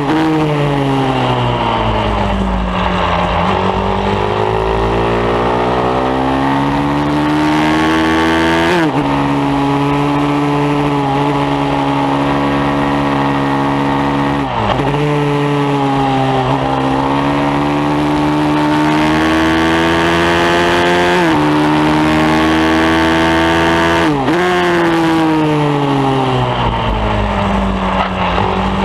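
A pit bike's single-cylinder engine at racing revs, climbing in pitch through the gears with sharp breaks at each shift, then dropping away as it slows for corners before pulling up again.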